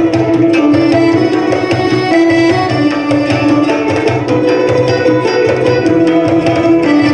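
Live traditional-music ensemble playing: a quick, even pattern of hand-drum strokes under sustained melodic instrument lines.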